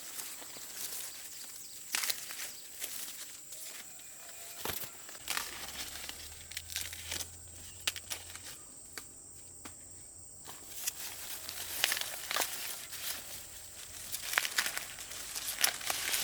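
Footsteps with rustling and crackling of dry plant material, many short irregular crackles. A steady thin high whine runs underneath, dropping out briefly about two thirds of the way in.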